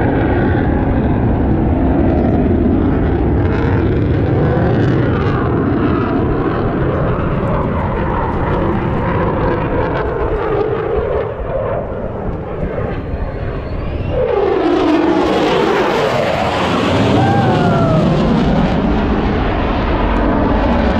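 Jet aircraft engine noise as a fast jet makes a low pass, with a sweeping rise and fall in pitch about two-thirds of the way through as it passes closest.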